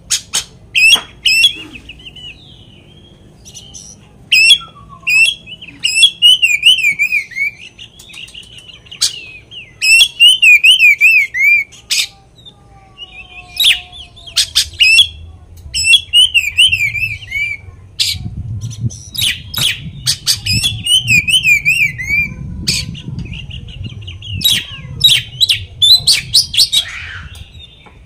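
Oriental magpie-robin (kacer) singing loudly in phrase after phrase of rapid warbling trills mixed with sharp, high chips and whistles: a varied song full of copied notes.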